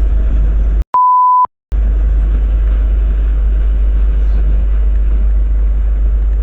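A single short, steady, pure bleep tone about a second in, edited into a moment where the rest of the sound is cut out. Otherwise a steady low rumble of background noise.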